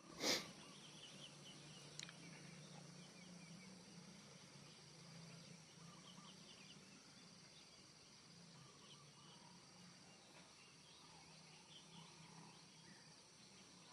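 Faint outdoor ambience: scattered short bird chirps over a steady insect drone and a low hum. A sharp click sounds right at the start, and a smaller one about two seconds in.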